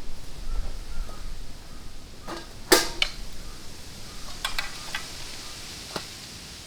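A few sharp knocks and clicks, the loudest about three seconds in, with a cluster of lighter clicks a little later and one more near the end, over a faint steady hiss.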